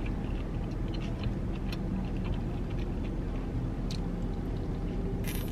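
Close-up mouth sounds of a person chewing a cheeseburger: small wet clicks and smacks, with a sharper smack about four seconds in as fingers are licked, over a steady low hum.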